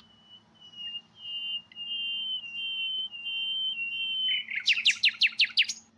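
Nightingale singing a whistle song: a series of long whistled notes, each held at a steady pitch, then a quick run of about eight downward-sweeping notes near the end.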